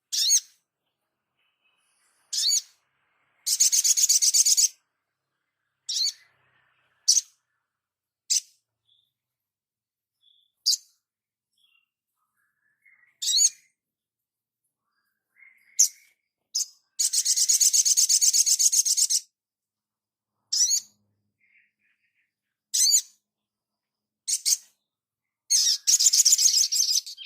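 A songbird calling: short, sharp high notes at irregular intervals, broken three times by a loud rapid trill lasting one to two seconds.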